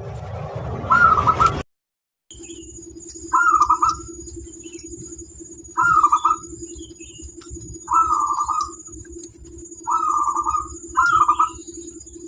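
Zebra dove (perkutut) cooing: short, rapid cooing phrases repeated about every two seconds over a steady low hum. The sound cuts out briefly near two seconds in.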